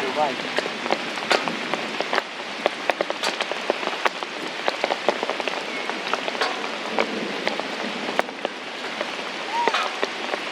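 Heavy rain falling, a steady downpour with many sharp separate drops hitting close by.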